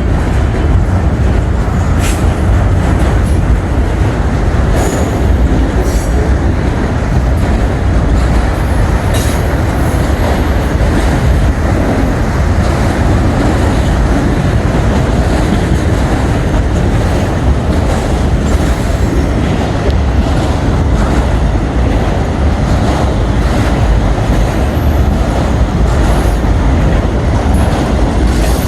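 Freight cars of a passing train rolling by in a steady loud rumble of wheels on rail, with brief high-pitched wheel squeals now and then.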